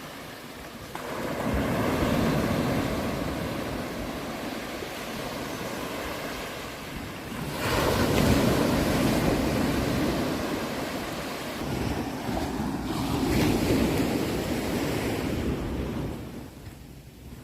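Sea waves breaking and washing in, three swells of rushing surf about six seconds apart, each building and then slowly fading.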